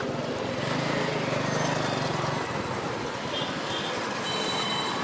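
Steady road and traffic noise of travel along a highway, with a low engine hum that swells for the first couple of seconds and then eases.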